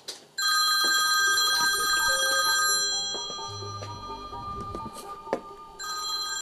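Smartphone ringing: an electronic ringtone of several steady high tones together, one ring lasting about two and a half seconds, then a second ring starting near the end.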